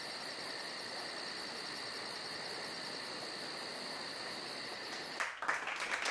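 Insects, likely crickets, chirping steadily in a high, even pulse of about four chirps a second. Near the end a louder rustling noise comes in.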